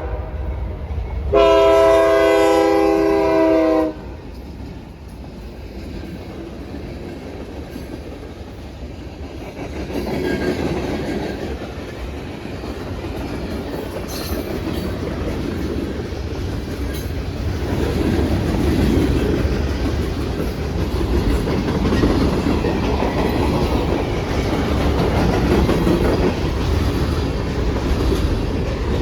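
CSX diesel freight locomotive sounding its multi-tone air horn in one long blast about a second in. From about ten seconds in, the train rumbles past with its cars rolling on the rails, growing louder toward the end.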